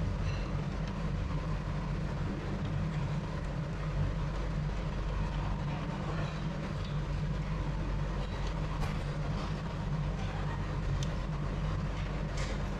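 Steady low rumble of a moving train heard from inside the carriage, with a few faint clicks and rattles.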